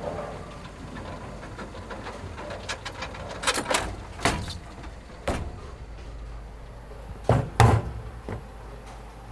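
A series of sharp, irregular knocks and clatters over a steady low hum. The loudest are two close knocks near the end.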